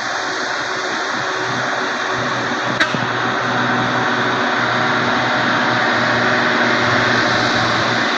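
Heavy truck engine running steadily, a dense mechanical noise with a low hum, growing a little louder about three seconds in. A single sharp click comes near the three-second mark.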